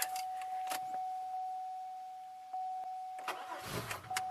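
A steady high tone with a few clicks, then about three and a half seconds in a 2002 Chevy Malibu's starter cranks the engine briefly. The engine gives only a spit and does not catch: a sign of the ongoing no-start fault.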